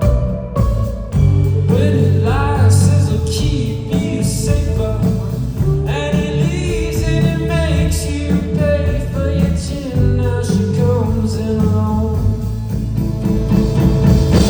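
Live indie rock band playing an instrumental passage of the song. A high lead line slides between notes over bass and drums with steady cymbal hits.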